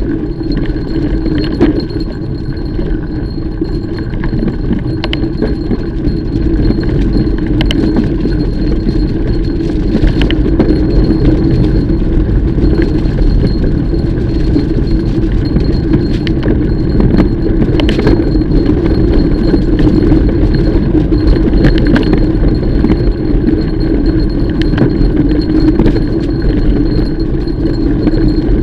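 Mountain bike being ridden along a trail: a steady rumble of tyres and wind, with the chain and frame clinking and rattling over bumps.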